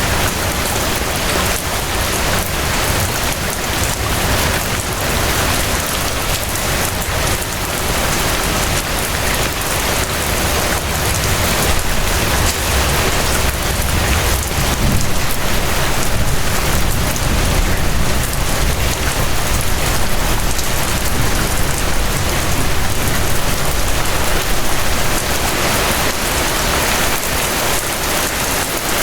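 Steady rain falling, a dense, even hiss of drops with a low rumble underneath that grows a little stronger around the middle.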